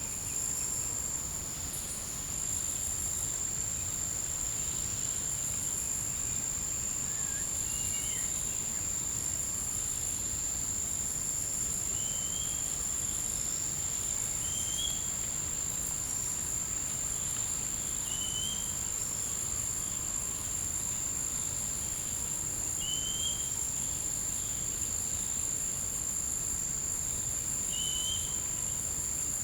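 Forest insect chorus: a steady high continuous trill with a faster pulsing hiss above it. A short, slurred call repeats about every three to five seconds over it.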